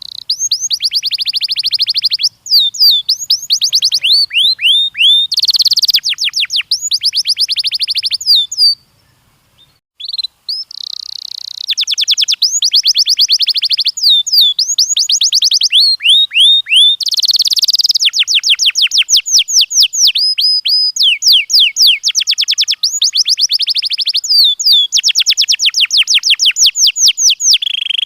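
Domestic canary singing: long runs of rapid, high-pitched repeated notes and trills, broken by a pause of about a second and a half roughly nine seconds in.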